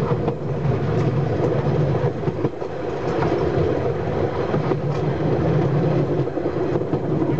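Heritage railway carriage running along the track, heard from its open rear balcony: a steady rumble of wheels on rail with scattered sharp clicks.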